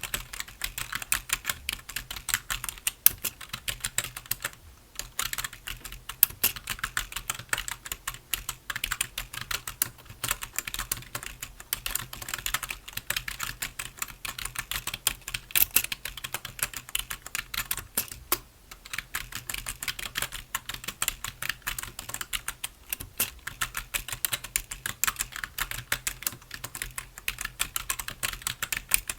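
Computer keyboard being typed on continuously, a fast run of key clicks with brief pauses about five seconds in and again past the middle.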